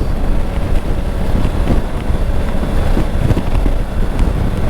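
Wind buffeting the microphone of a Triumph Tiger 900 motorcycle while riding, a loud, steady rush. The bike's engine and road noise run underneath.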